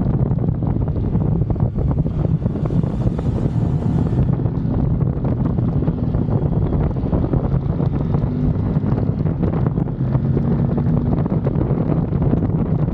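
Steady wind buffeting the microphone of a moving motorcycle, with the Kove 800X Pro's parallel-twin engine running underneath at a steady pace.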